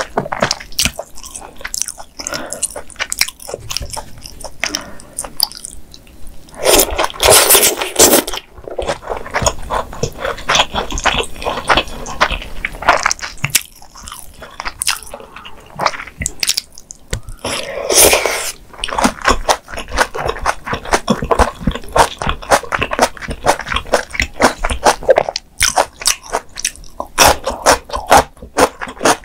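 Close-miked chewing of spicy malaxiangguo (wide noodles, tofu-skin sticks and beef in oily sauce): a steady run of wet chewing and crunching clicks, with two louder, longer noisy bursts about seven and eighteen seconds in.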